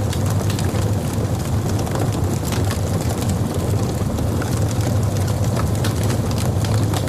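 Logs burning in a fireplace: a steady low rumble of the flames, with irregular sharp crackles and pops from the burning wood scattered throughout.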